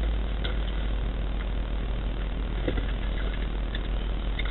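Car engine idling, heard from inside the car's cabin as a steady low rumble.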